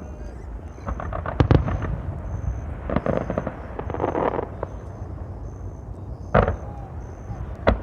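Fireworks going off: a quick run of crackling pops about a second in, a spell of fizzing crackle around the middle, and two sharp bangs near the end.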